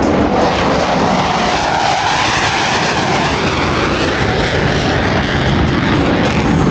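Blue Angels Boeing F/A-18 Super Hornet jets flying past: loud, steady jet engine noise, with its pitch swelling about two seconds in and then falling away.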